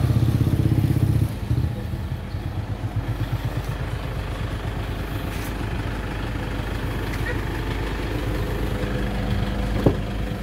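Car engine idling steadily, with a low even pulse; it is loudest for about the first second and then drops suddenly to a lower, steady level. A single short knock near the end.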